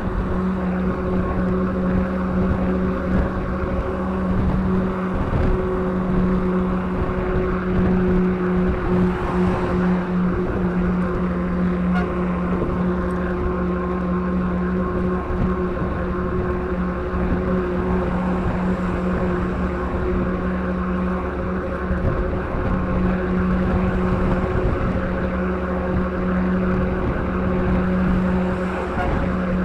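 A truck engine running with a steady, even drone while the truck is followed at about 70 km/h, under a heavy rush of wind over the microphone.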